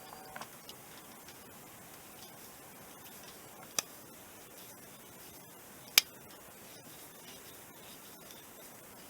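A few small clicks, then two sharp clicks about two seconds apart, over faint hiss: parts of a driveshaft universal joint being handled and fitted into its clamp yoke.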